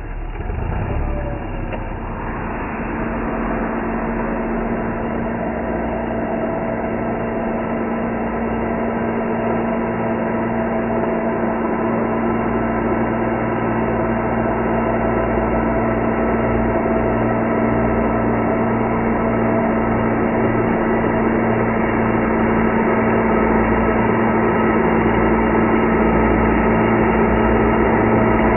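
A steady machine drone with several fixed tones, growing slowly louder.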